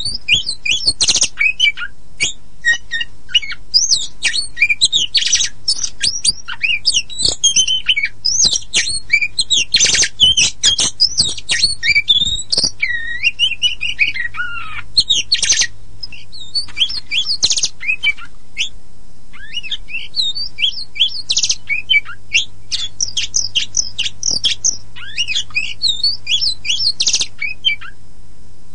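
Oriental magpie-robin of the black-and-white kacer poci form singing a fast, unbroken song of varied whistles, chirps and harsh rasping notes, with a slurred, falling phrase about halfway through.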